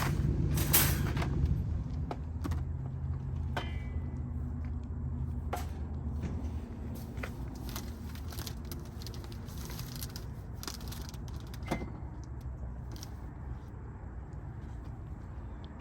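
A car engine's low hum, fading after about seven seconds, with scattered clicks and knocks of things being handled in and around the car, several in quick succession in the first second or so.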